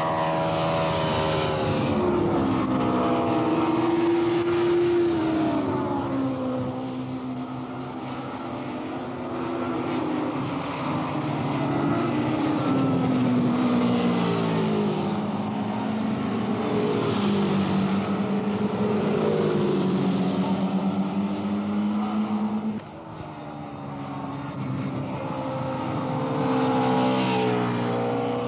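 Superbike racing motorcycle engines running hard, their pitch repeatedly climbing and dropping with acceleration and gear changes. The sound turns abruptly quieter a little over twenty seconds in, then builds again.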